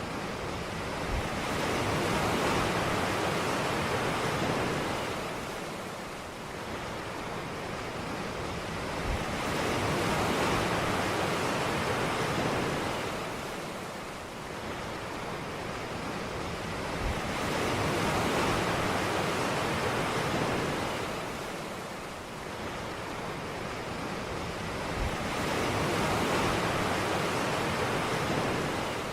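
Ocean surf on a beach: waves break and wash in with a rushing hiss that swells and fades in a slow cycle about every eight seconds, four times over.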